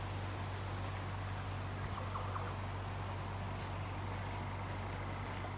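Farm ambience: a steady low hum under faint insect and bird sounds, with a few short chirps about two seconds in.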